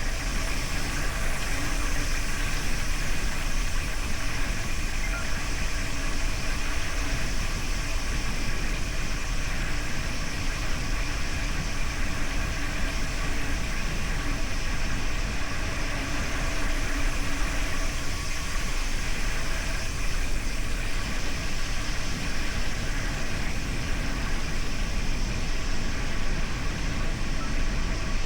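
Steady wind rush and tyre noise of a gravel bike being ridden, unbroken and even in level.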